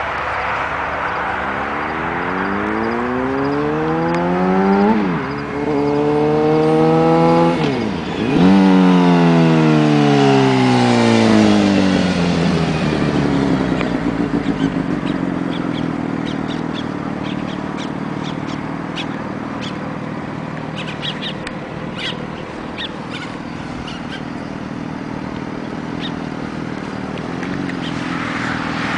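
Motorcycle engine accelerating. Its pitch climbs, drops sharply at two gear changes about five and eight seconds in, and climbs again after each. It then winds down over several seconds as the bike slows and settles into a lower, steady run, with faint clicks scattered through the middle.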